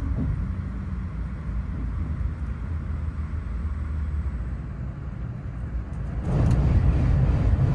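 Inside the cabin of a Shinkansen bullet train running at speed: a steady low rumble of running noise, which gets louder and hissier from about six seconds in.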